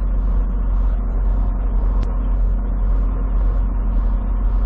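Semi truck's diesel engine and road rumble heard from inside the cab while driving, a steady low drone. A regular hissing pulse comes about twice a second over it.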